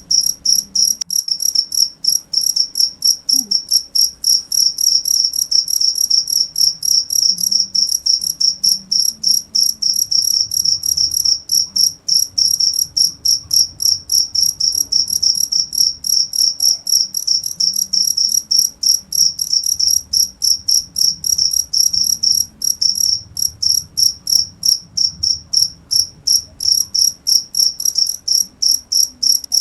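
Cricket chirping without pause: a steady, fast train of short high-pitched chirps, several a second.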